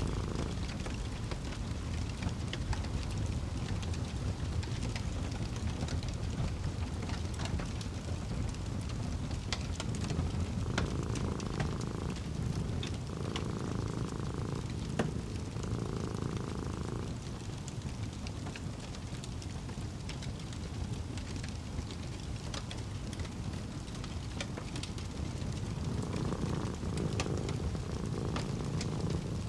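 Fireplace crackling, with scattered sharp pops over a steady low rumble of the burning fire. A cat purrs in a few short spells about a third of the way in and again near the end.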